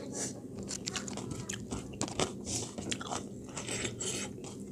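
A person chewing and biting food, with many short, irregular mouth smacks and clicks.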